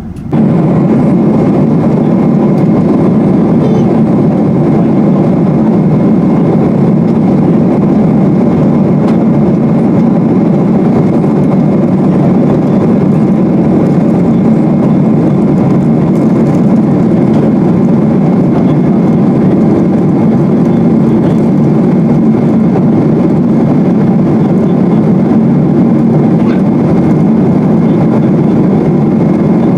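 Steady jet engine and airflow noise heard inside the cabin of a Boeing 777-200, an even rumble that does not rise or fall.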